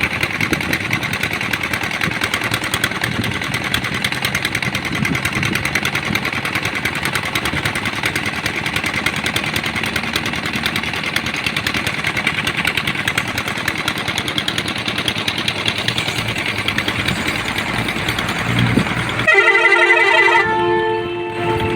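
Tractor diesel engine running steadily. About 19 seconds in, a multi-tone musical horn plays a short stepping tune and then holds a chord of notes.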